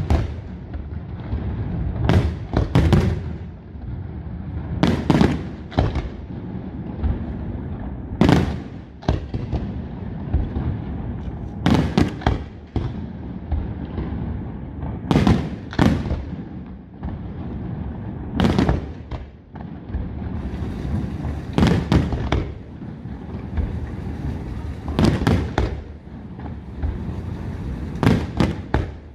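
Aerial firework shells bursting at a steady pace, sharp bangs mostly in pairs about every three seconds, with a continuous low rumble between them.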